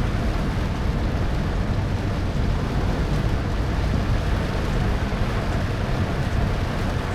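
A car driving in heavy rain: a steady rumble of road and tyre noise mixed with the hiss of rain, with no change or break.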